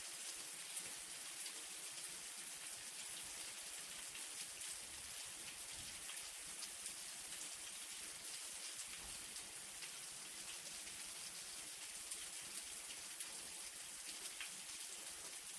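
Light rain falling steadily, a constant hiss dotted with the small ticks of individual drops landing on a surface.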